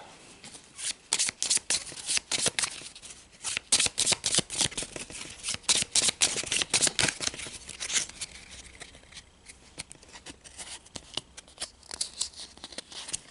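Pokémon trading cards being handled and flicked through: a quick run of papery clicks and rustles that thins out and softens after about eight seconds.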